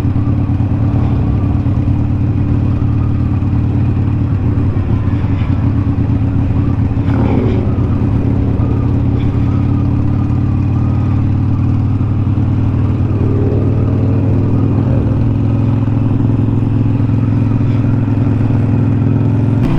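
Harley-Davidson Sportster 883 Superlow's air-cooled V-twin running steadily under way, a constant low engine note with no sharp revving.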